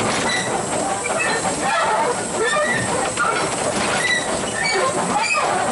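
Narrow-gauge train running along the track, a steady clatter of wheels and wagons with short, high wheel squeaks scattered throughout.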